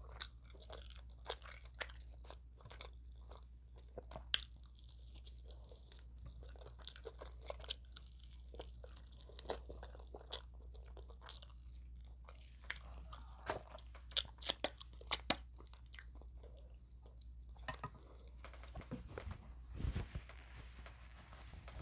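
Close-miked crunching and chewing of extra-crispy fried chicken, irregular crackles with a few sharper loud crunches. A low steady hum runs underneath.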